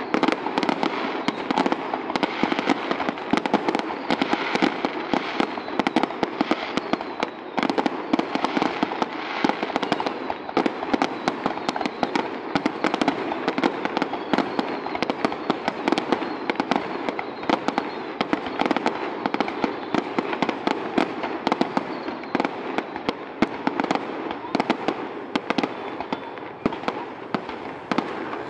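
Aerial fireworks display: a dense, unbroken barrage of bangs from shells bursting, many a second.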